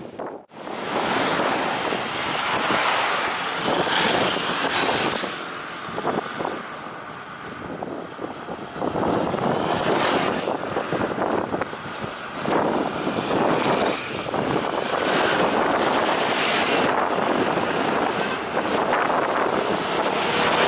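Jet airliner engines on landing approach, a loud steady rush, mixed with gusts of wind buffeting the microphone.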